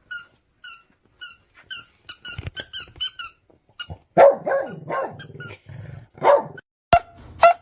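A dog giving a run of short, high-pitched cries about twice a second, which crowd together and then turn into louder barks from about four seconds in.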